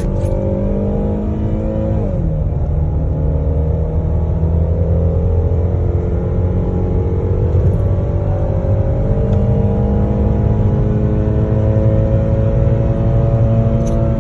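2022 Chevrolet Malibu accelerating hard toward top speed, heard from inside the cabin. The engine's pitch drops at an upshift about two seconds in, then climbs slowly and steadily over a low rumble of road noise.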